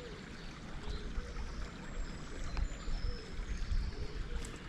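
Small woodland stream running and trickling over stones, a steady rush of water.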